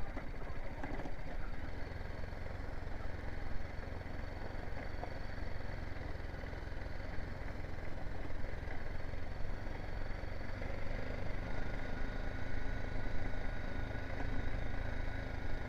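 BMW G 310 GS motorcycle's single-cylinder engine running steadily at low speed, with a steady low hum that settles in about a second and a half in.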